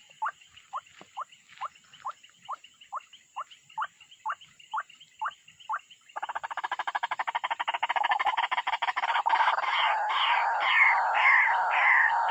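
Repeated animal calls: a run of short falling notes, about two a second. About halfway through, a dense rapid rattling chorus sets in suddenly, and louder falling calls join it near the end.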